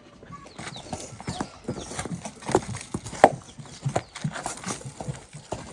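Irregular clatter of sharp knocks, several a second, the loudest a little past three seconds in.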